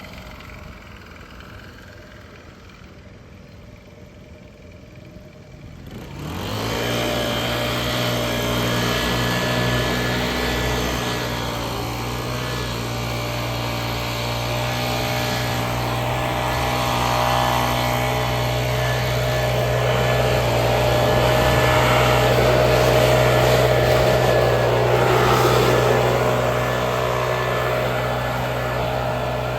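Low background for the first few seconds, then about six seconds in a small petrol engine on lawn-care equipment starts, its pitch rising as it catches and settling into a steady run, with the engine working a little harder later on.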